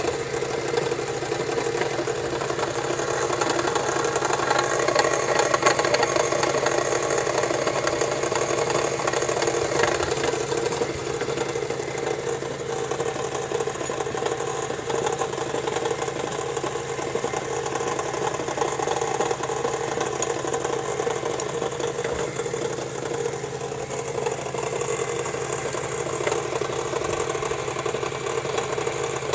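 Mazda 3 engine idling steadily, with a knock under the hood.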